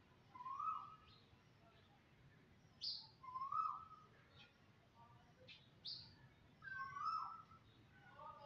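Birds calling: quick, high chirps now and then, between lower, drawn-out calls that come every few seconds.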